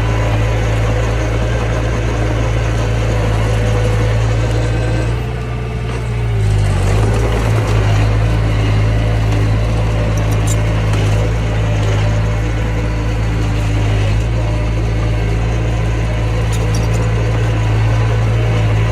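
Mini bulldozer's diesel engine running steadily, its pitch and level dipping briefly about five seconds in, then picking back up.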